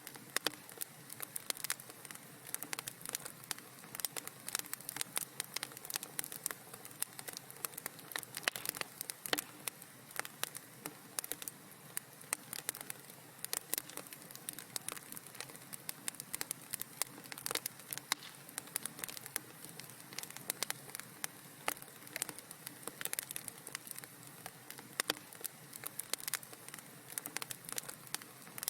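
Wood fire crackling in a fireplace: a steady, dense run of small pops and snaps over a soft hiss.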